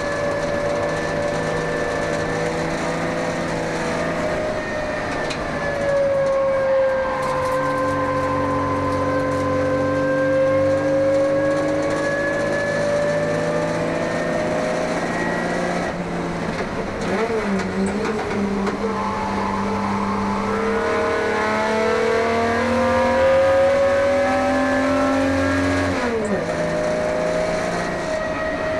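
1971 Holden HQ race car's 202 straight-six engine running hard at racing revs, its pitch rising and falling with throttle and gear changes, with a sharp drop in revs near the end.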